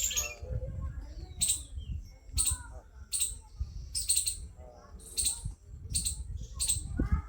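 Bird giving short, high chirps about once a second, over a low rumble of wind on the microphone, with faint wavering calls or distant voices in between.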